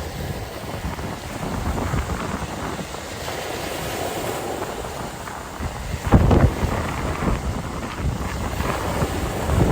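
Wind buffeting the microphone in uneven low rumbling gusts over the wash of sea waves, with the strongest gust about six seconds in.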